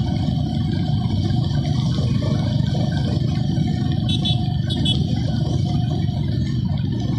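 Steady wind rumble and motorcycle running noise from a bike under way on the road, with two brief high chirps about four and five seconds in.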